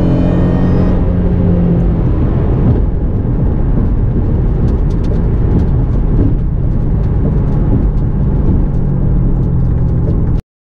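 Shelby GT500's V8 running steadily at cruise, heard from inside the cabin with tyre and road noise. It cuts off abruptly near the end.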